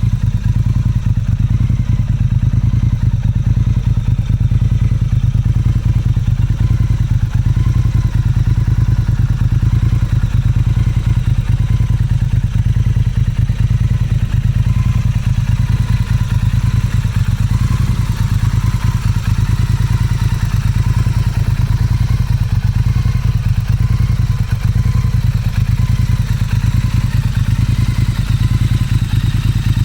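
Motorcycle engine running steadily at an unchanging speed, a dense, even low beat with no revving.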